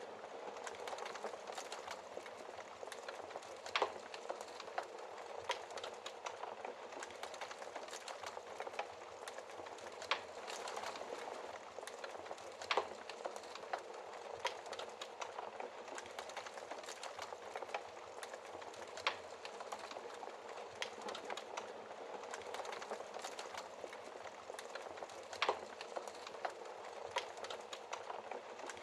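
Wood fire burning in a fireplace: a steady hiss with constant small crackles and a few louder, sharp pops.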